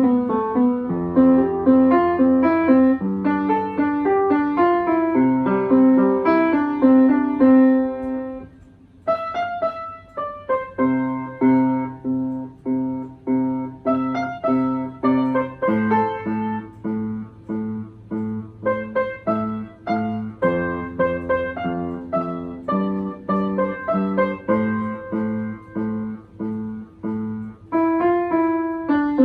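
Piano being played: a melody over a regular pulse of repeated low notes, with a brief pause about eight and a half seconds in before the playing resumes.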